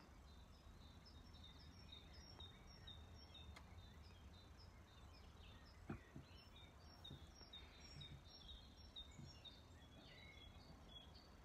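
Near silence in the open air: small birds chirping faintly, many short high notes repeating, over a low steady hum. A single soft tap comes about halfway through.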